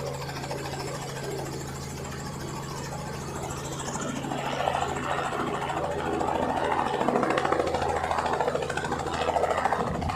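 An engine running steadily with a low, even hum. A busier mid-range noise grows louder about four seconds in.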